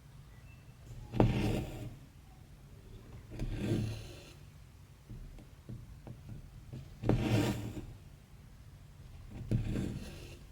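Embroidery thread pulled through stretched cross-stitch fabric: four short raspy pulls, about two to three seconds apart.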